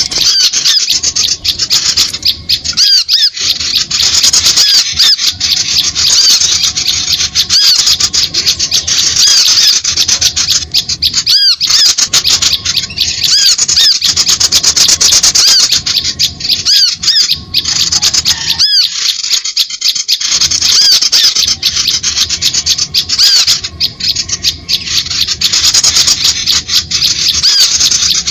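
Dense, continuous high-pitched chirping and squeaking of small birds, rapid notes overlapping with only brief gaps: a loud bird-lure (pikat) recording meant to draw small birds in.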